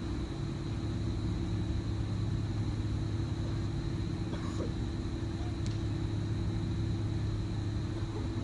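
Steady low rumble with a constant hum under it.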